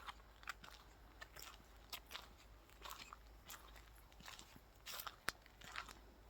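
Faint footsteps crunching on a dry path, about two steps a second at an uneven walking pace.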